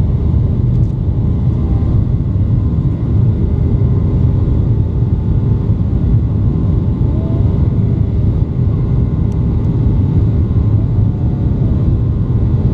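Steady, loud cabin rumble of a Boeing 737-800 under takeoff power: its CFM56-7B engines and the rush of air and rolling noise, with a few faint steady whining tones above the rumble.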